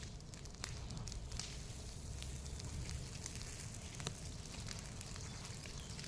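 Bonfire of pruned branch cuttings burning, with irregular crackles and pops of the wood over a steady low rushing noise.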